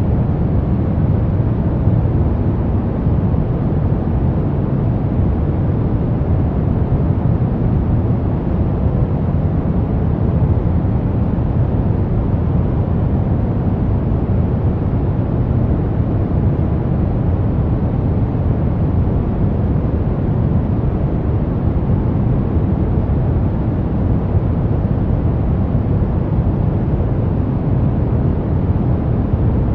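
Brown noise: a steady, deep rumbling hiss weighted toward the low end, with no change or events.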